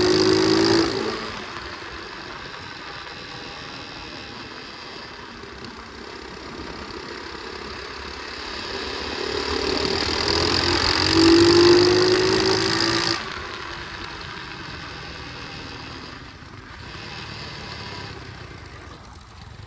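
Pit bike engine under way: running at high revs, then easing off about a second in. It builds again with a rising pitch and gets loudest around twelve seconds in, then drops suddenly as the throttle is shut.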